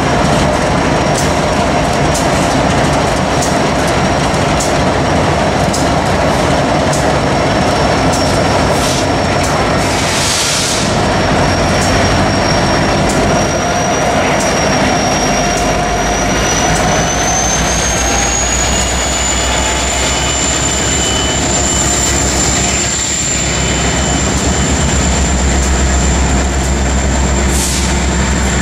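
Union Pacific grain train of covered hoppers rolling past: steel wheels clicking over the rail joints, with a thin, steady high wheel squeal that rises slightly in pitch partway through. About halfway through, the low rumble of the rear distributed-power diesel locomotive joins in as it goes by.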